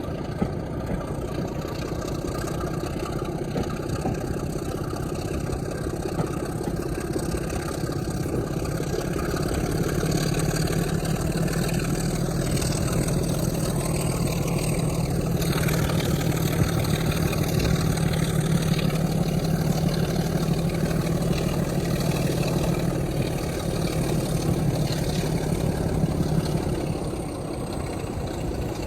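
Diesel locomotive engine running with a steady low drone, growing louder about a third of the way in, then easing off near the end.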